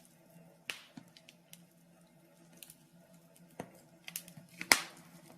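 Scattered faint clicks and knocks over a low steady hum, with a sharper knock about three-quarters of a second in and the loudest one near the end.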